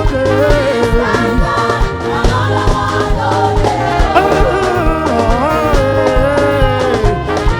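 Live band playing an upbeat gospel dance groove, with regular drum hits, a strong bass line and a sliding melody line over sustained chords.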